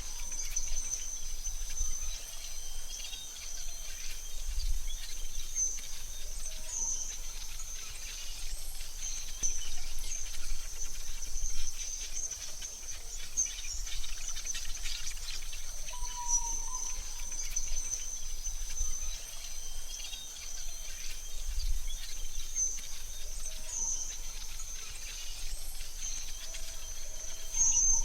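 AI-generated forest ambience: a steady, high-pitched insect drone over a soft hiss, with a few short bird chirps.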